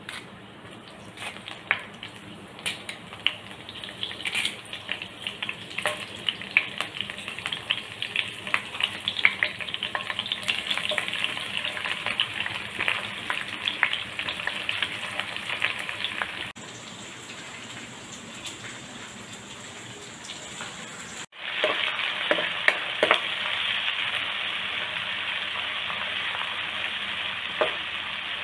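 Pandan leaves and sliced onions frying in hot coconut oil in a wok: popping and crackling that grows denser, then, after two abrupt changes, a louder steady sizzle as the onions are stirred, with a few sharp knocks of the spoon on the pan.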